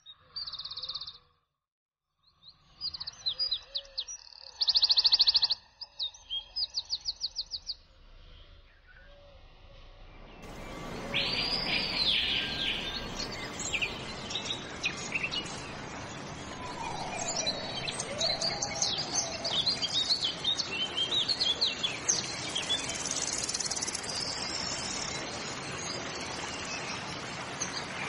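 Small songbirds chirping: short high calls and rapid trills, the loudest about five seconds in. From about ten seconds in, many overlapping bird calls over a steady outdoor hiss.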